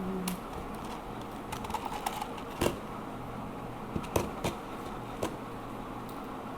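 Scattered light clicks and taps, a few sharper ones about two and a half, four and five seconds in, over a steady low room hum.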